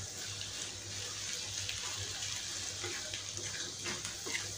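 Okra and gram-flour masala sizzling gently in a non-stick kadai while a wooden spatula stirs it, with a few faint scrapes of the spatula against the pan.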